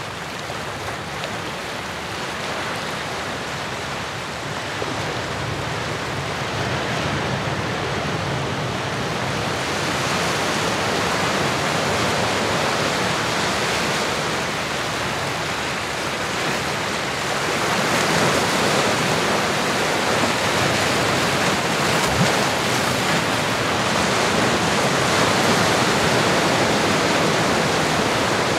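Ocean waves and surf: a steady rushing wash that swells louder about ten seconds in and again later on.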